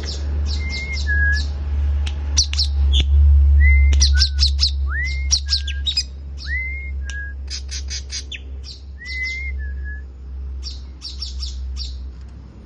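Songbirds calling: clusters of rapid high chirps, with several short whistled notes that rise and then hold or step down. A steady low hum runs underneath.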